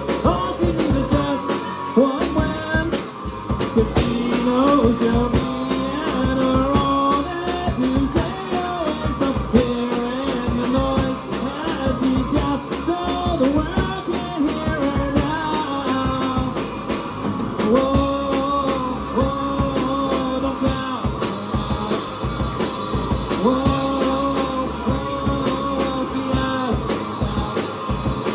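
Live rock band playing a song: electric guitar, bass and drums, with held melodic notes over a steady beat.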